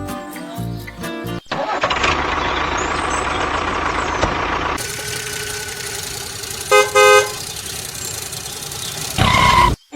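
A motor vehicle's engine running steadily, with two short horn honks about seven seconds in and another loud horn-like tone just before the end.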